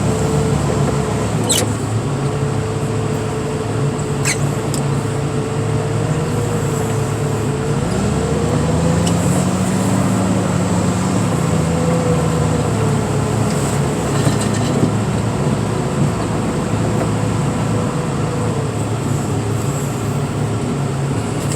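Heavy diesel machinery engine running steadily, with a higher whine that rises and falls as the machine works, and a few sharp clicks in the first few seconds.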